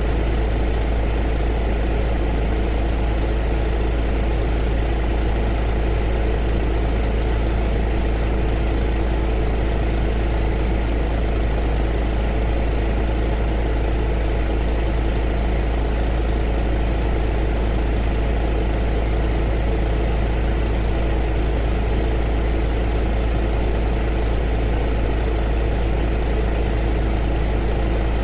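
Heater running: a steady, unchanging drone with a deep low hum.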